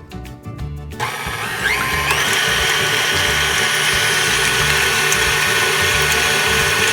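Electric hand mixer switching on about a second in, spinning up with a rising whine, then running steadily at high speed while beating eggs.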